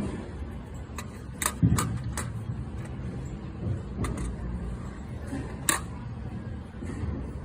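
Several short, sharp clicks and taps, scattered irregularly, over a steady low rumble.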